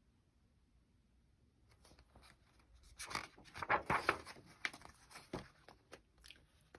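A run of uneven crackling and rustling from something being handled, starting about two seconds in and stopping shortly before the end.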